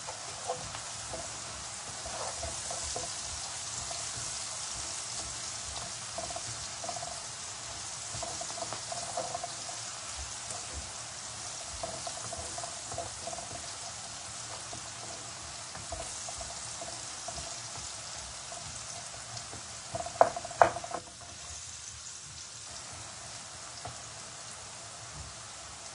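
Onions and green chillies frying in hot oil in a pan: a steady sizzle with scattered light ticks. A little past two-thirds of the way through there are two or three sharp knocks.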